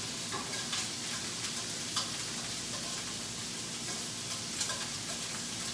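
Shrimp sizzling steadily as they sauté in a hot pan, with a few faint pops.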